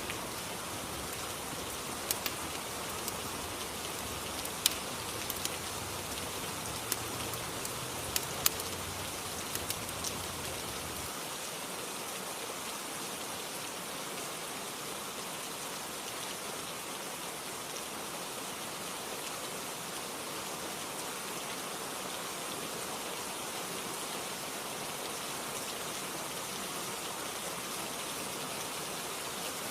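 Rain and fireplace ambience: steady rain throughout. In the first ten seconds a handful of sharp fire crackles sound over a low rumble, which drops away about eleven seconds in.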